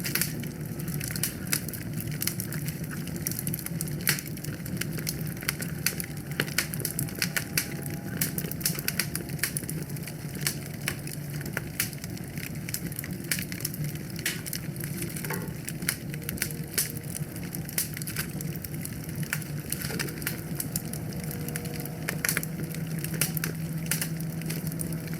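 Wood fire burning steadily in a fireplace, with many irregular sharp crackles and pops over a low, even rumble of flame.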